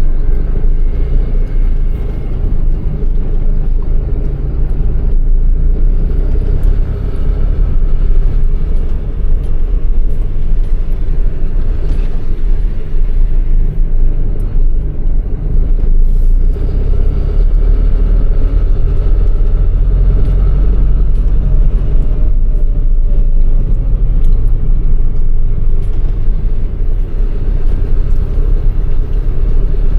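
MAN truck's diesel engine running with a steady, heavy low rumble, heard from inside the cab.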